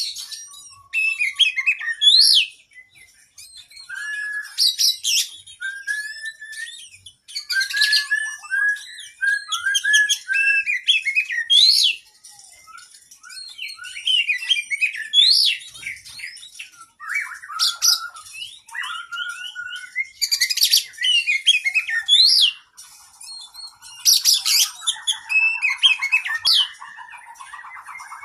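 Oriental magpie-robin (kacer) singing a long, varied song of whistles, chirps and quick trills, with a buzzy, rasping passage near the end.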